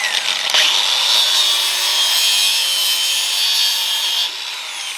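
A power tool cutting under load, steady for about four seconds, then lighter with its pitch easing near the end.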